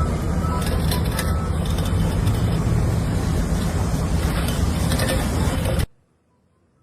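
Heavy construction vehicle's engine running with a steady low rumble, its reversing alarm beeping a few times in the first second and a half; the sound cuts off suddenly about six seconds in.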